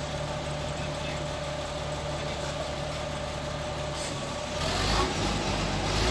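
Heavy diesel engine idling steadily with a faint whine. Four and a half seconds in it gets louder and deeper, as if taken off idle or put under load.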